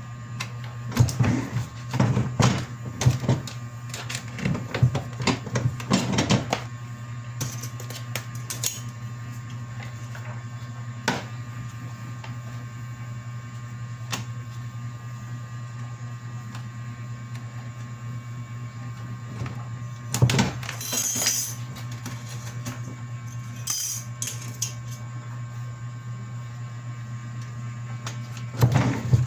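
A steady low hum with irregular clatter and knocks, busiest in the first several seconds and again around twenty seconds in.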